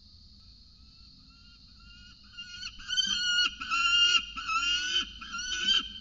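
Peregrine falcon calling: a string of about five drawn-out, harsh wailing calls, one straight after another. They start about two and a half seconds in and are loudest around the four-second mark.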